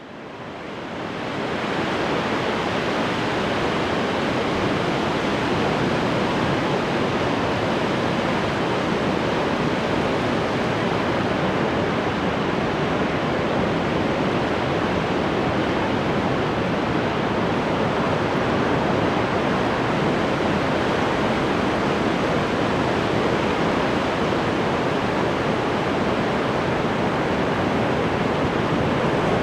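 Ocean surf washing on a shore, a steady dense rush of waves with no distinct single crashes, fading in over the first two seconds.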